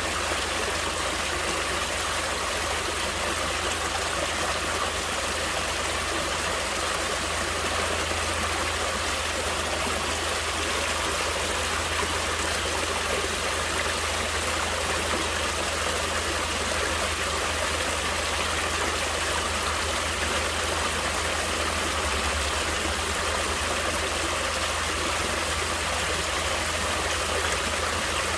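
Water flowing steadily in a stream, a continuous even rush with no breaks.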